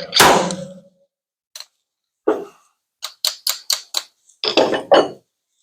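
Sharp metal strikes during dent pulling on the steel bed panel of a 2015 Ford F-350 Super Duty: one hard hit that leaves the panel ringing briefly, a few single knocks, then a quick run of about five light strikes and some heavier ones near the end.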